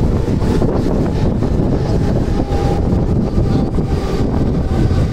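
Mumbai suburban electric local train (EMU) running at speed, its wheels and running gear rumbling steadily under heavy wind noise on a microphone held out of the open doorway.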